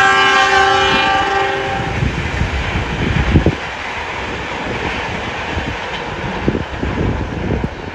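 Train horn sounding a multi-note chord for about the first two seconds. Then the rumble and clatter of train wheels on the track, with a few thumps, getting quieter as the train moves away.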